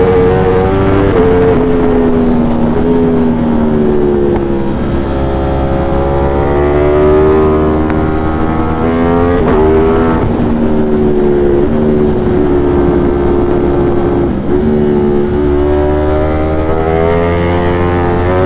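A 200-plus-horsepower motorcycle engine running hard at speed, heard from on board. Its pitch rises and falls with the throttle and changes abruptly several times as gears change.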